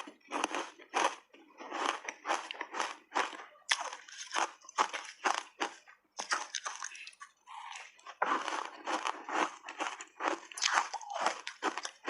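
Close-up crunching of hard ice being bitten and chewed, a rapid run of sharp cracks several times a second with short pauses.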